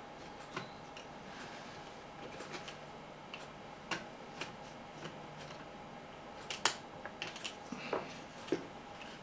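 Scattered small clicks and taps of the portable radio's plastic casing and parts being handled and pressed together, a cluster of louder ones a little past halfway, over a faint steady hum.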